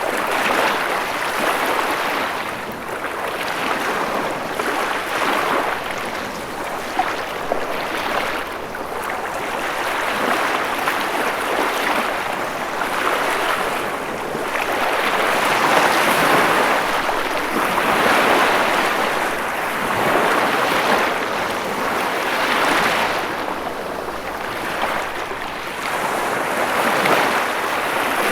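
Ocean waves washing in and breaking, a continuous rushing that swells and falls back every few seconds.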